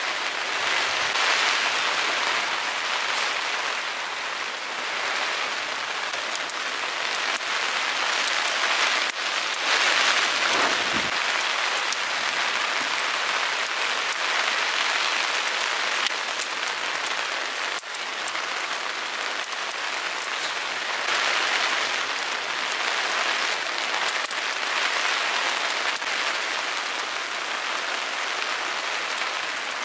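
Heavy rain falling steadily, a dense hiss that swells and eases every few seconds, with scattered sharper drop hits.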